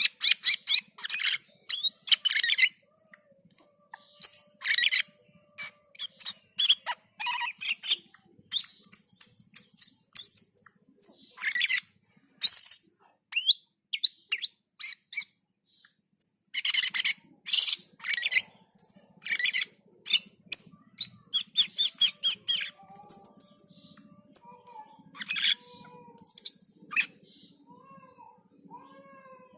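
Cucak keling calling in a fast stream of short harsh chatters, squawks and slurred whistled notes, broken by brief pauses: the bird in full song.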